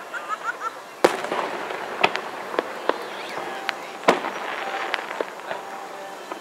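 Aerial fireworks shells bursting: a series of sharp bangs at irregular intervals, the loudest about a second in and about four seconds in, with crackling between them.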